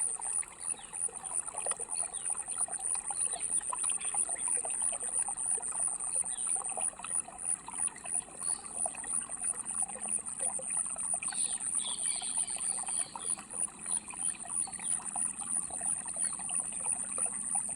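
Small stream trickling and babbling steadily, with a continuous high-pitched insect trill over it.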